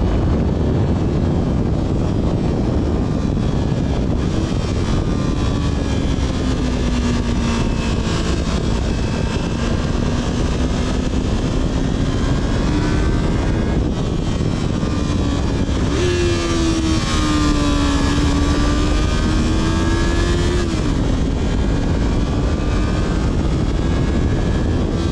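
Yamaha R3's parallel-twin engine through its stock exhaust, running at steady cruising revs under heavy wind and road noise. Its drone drifts gently up and down in pitch, with a brief step up about sixteen seconds in.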